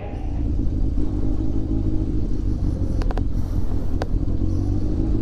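A vehicle engine idling with a steady low rumble, with a few short clicks about three and four seconds in.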